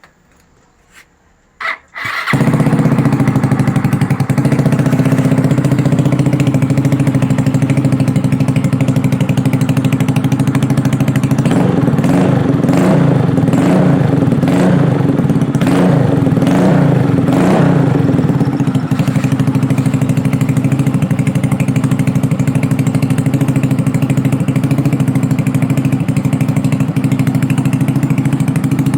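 Yamaha Mio i 125 scooter's single-cylinder four-stroke engine breathing through an SC Project-style aftermarket exhaust: a few light clicks, then it starts about two seconds in and settles to a steady idle. Near the middle the throttle is blipped about seven times in quick succession, each rev rising and falling, before it drops back to idle.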